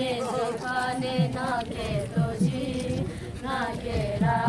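Singing: a chant-like melody with long held and sliding notes, a higher voice over lower ones.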